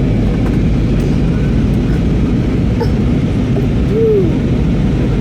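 Steady low roar of a passenger airliner's cabin noise. A short pitched sound that rises and falls comes about four seconds in.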